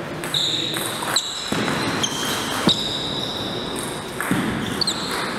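Table tennis play in a hall: a few sharp clicks of the ball off bat and table at irregular spacing, with short high squeaks over a steady hall noise.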